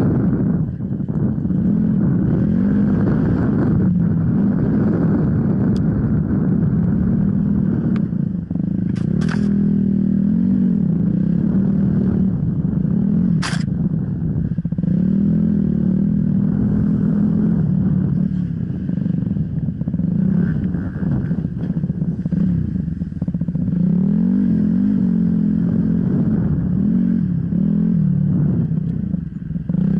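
Off-road enduro motorcycle engine running hard, its pitch rising and falling as the throttle is opened and closed, with two sharp knocks along the way.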